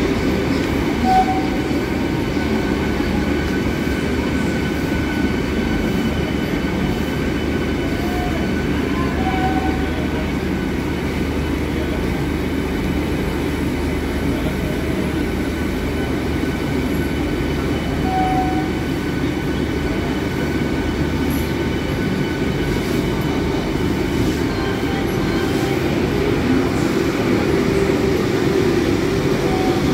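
Train rolling along the track at a station: a steady rumble, with a few brief high squeaks about a second, nine seconds and eighteen seconds in.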